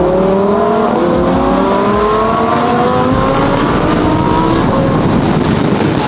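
Twin-turbo Lamborghini Huracán's V10 accelerating hard, its pitch climbing steadily with a gear change about a second in. The note then climbs again before giving way to a steady rush of engine and road noise in the second half.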